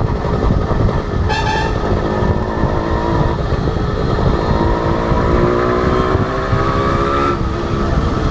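Honda H100S two-stroke motorcycle engine under way, rising steadily in pitch as it accelerates, then dropping suddenly near the end as it shifts gear, over heavy wind rumble on the microphone. A brief high-pitched tone about a second in.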